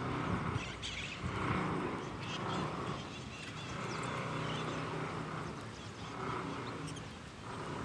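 Birds calling, with a harsh call repeated about once a second and thin high chirps over a steady low hum.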